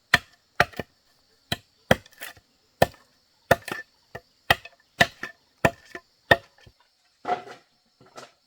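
Tool chopping into wood: sharp, separate strokes about two a second, with a longer, rougher stroke near the end. Crickets chirr steadily behind.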